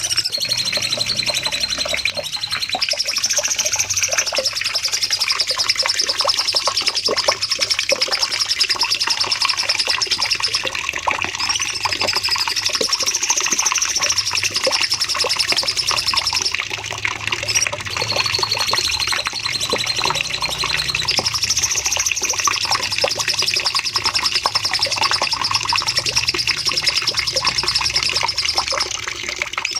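Cucak cungkok singing long, unbroken runs of fast, high trilling song ('nembak panjang'), with only a few brief breaks between phrases.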